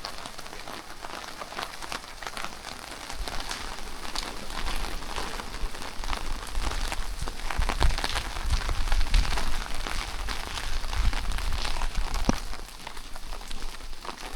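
Steady rain falling, with many close, scattered drop taps, and a low rumble from about five to twelve seconds in.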